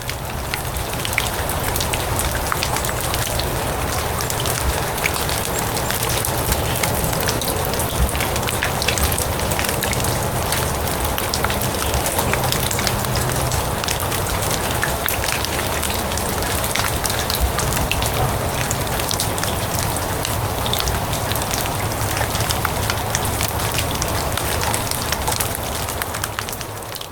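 Steady rain falling on grass: a dense patter of small drops over a low rumble. It fades in at the start and fades out near the end.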